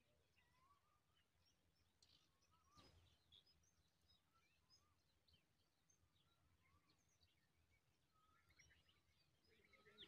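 Faint wild birdsong: scattered short chirps and small rising whistles, with a low steady hum underneath.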